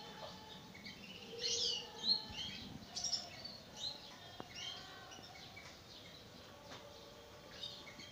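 Birds chirping: quick runs of short, high chirps, busiest in the first half and again briefly near the end.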